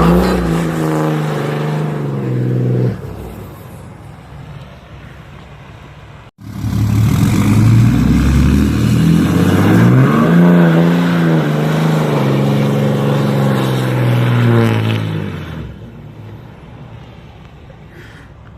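Pickup truck's 6.7 Cummins diesel engine revving and accelerating, pitch climbing and then falling away. This happens twice, with an abrupt cut about six seconds in, and the sound drops lower near the end.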